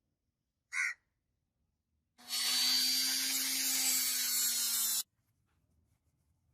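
A small handheld power tool, such as a rotary tool or mini drill, running steadily for about three seconds and then switched off abruptly. A brief hissing burst comes about a second before it.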